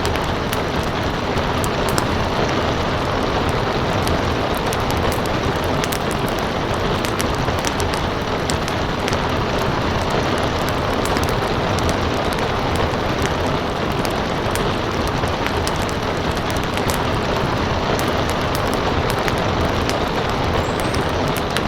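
Steady heavy rain hissing, mixed with a wood fire crackling: scattered sharp pops and snaps throughout.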